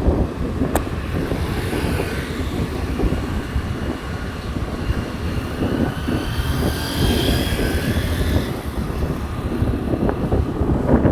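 Motorcycle riding along a road: steady engine and wind rumble on the microphone, with a faint high whine rising and fading in the middle.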